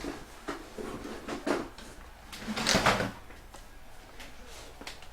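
Baseball card packs and cards being handled: light taps and rustles, with a louder rustle lasting under a second about two and a half seconds in.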